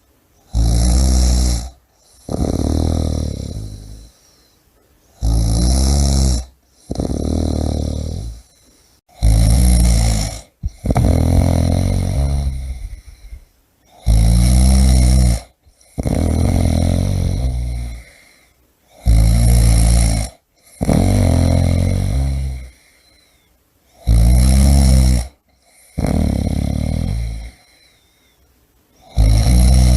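A person snoring in a steady rhythm, about one breath cycle every four and a half to five seconds. Each cycle is a short, loud, rattling snore followed by a longer snore that trails off, then a brief pause.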